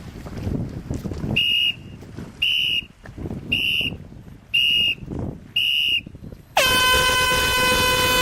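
A sailing race start signal: five short high beeps about a second apart, then a long air horn blast that slides up in pitch as it starts. Wind buffets the microphone throughout.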